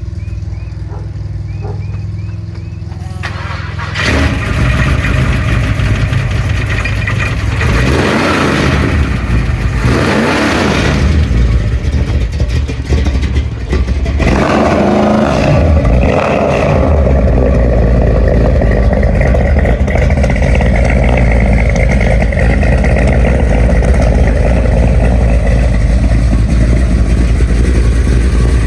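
1989 Chevrolet S-10 pickup engine cold-started: it catches about four seconds in, is revved a few times with the pitch rising and falling, then settles into a steady idle.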